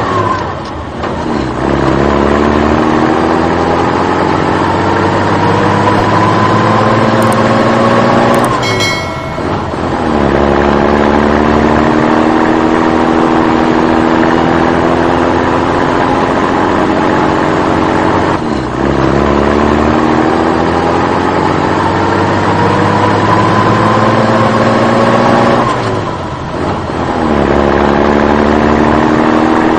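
Vehicle engine sound that slowly rises in pitch as if revving up, drops back and rises again in repeating cycles of about eight seconds. There is a short clatter at the first drop.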